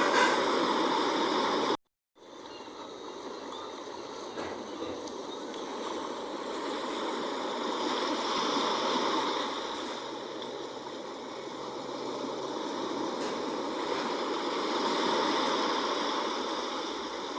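Sea waves washing in a steady rush that swells and ebbs slowly every several seconds. About two seconds in the sound cuts out completely for a moment, then fades back in.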